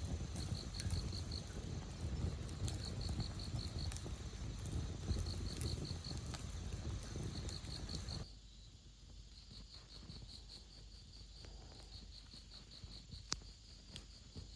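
Insects chirping in short, high pulsed trills repeated every second or so, over a low background rumble that drops away about eight seconds in; a few sharp clicks.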